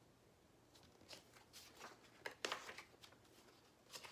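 Faint paper rustling and handling noises, a few brief rustles in a quiet room, like the pages of a picture book being handled and turned.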